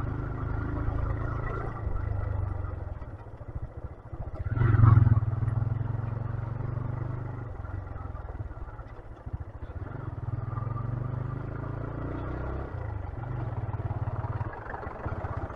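125cc motorcycle engine running while the bike rides a rough off-road track, with a louder surge of engine and rattle about five seconds in.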